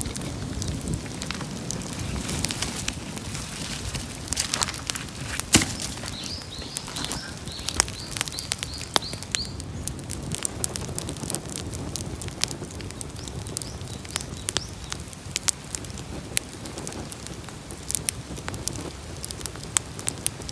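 Bonfire crackling, with many sharp pops and snaps over a steady low rumble. A bird calls a quick run of short chirps about six to nine seconds in.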